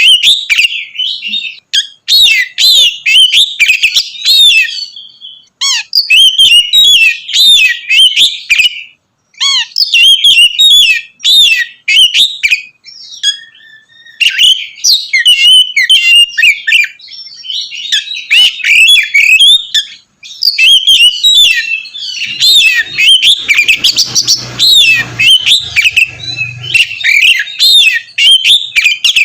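Oriental magpie-robin (kacer) singing loudly and continuously, a fast, varied string of whistles and chirps in long phrases broken by brief pauses.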